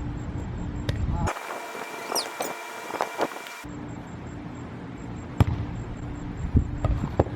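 Wind buffeting the microphone, with several sharp thumps of a volleyball being hit in the second half, one about five seconds in and a cluster near the end. A short cut of thinner, different background sound breaks in near the start.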